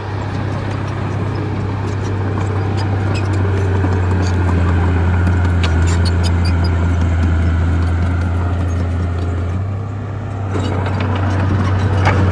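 Bulldozer's diesel engine running steadily under work, a deep even drone that eases slightly about ten seconds in and picks up again, with scattered light clicks and scrapes over it.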